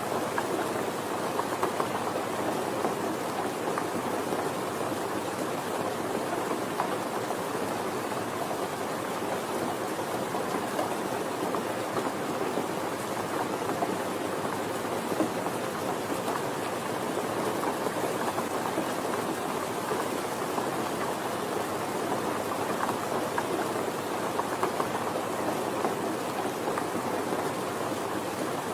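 Steady, gentle rain falling, an even hiss with fine patter of drops.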